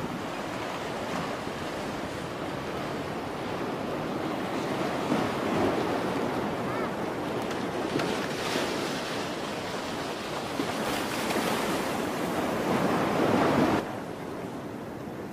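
Rush of wind and sea waves, with wind buffeting the microphone, swelling twice and dropping off sharply near the end.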